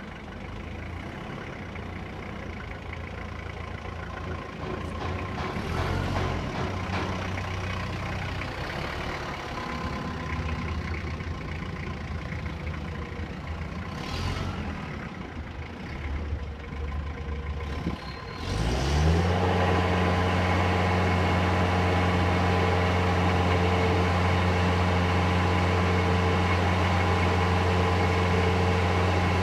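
3-ton forklift's Isuzu engine idling unevenly, then revving up quickly about two-thirds of the way through and holding at a high, steady speed, noticeably louder.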